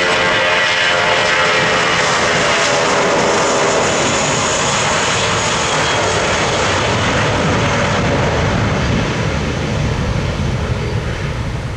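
Airplane engines passing close by. A whine falls in pitch over the first second or two, then gives way to a loud, broad engine noise that moves lower and fades gradually near the end.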